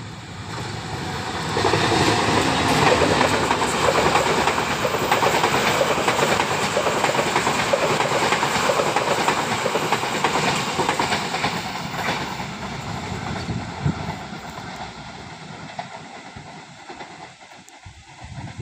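A train passing close by on the track, its sound swelling about a second and a half in and fading away over the last few seconds.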